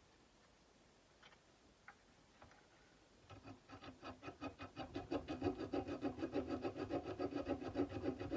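Sandpaper rubbed by hand along a steel kukri blade in quick back-and-forth strokes, about five a second. The strokes start about three seconds in, after a few light clicks, and grow louder.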